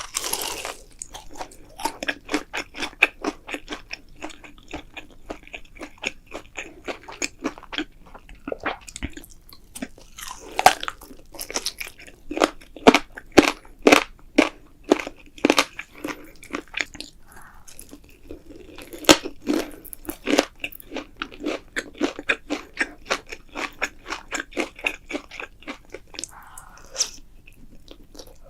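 Crisp food being bitten and chewed: a long run of crunches, at times about two a second.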